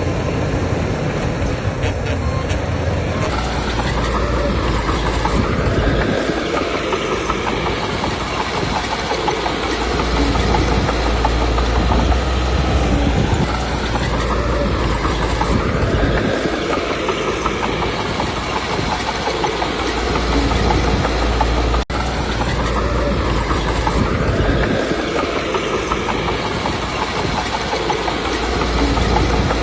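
Komatsu D21P bulldozer working: its diesel engine runs under load and its steel tracks clank. The engine note swells and eases in repeating cycles every several seconds.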